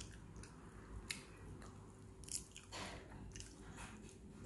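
A person chewing and biting roast chicken close to the microphone: soft wet chewing with scattered short crisp clicks and smacks, the clearest just over a second in and a little past two seconds in.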